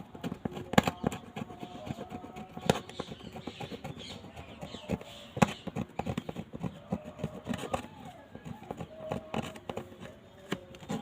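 A hand tool scraping and clicking irregularly against a phone's frame as old display adhesive and debris are cleaned off, ahead of gluing on a new screen.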